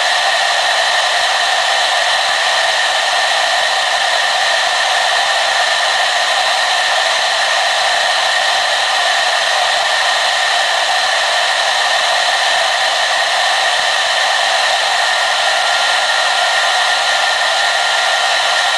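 Hair dryer blowing steadily: an unchanging rush of air with a constant whine from its motor and fan.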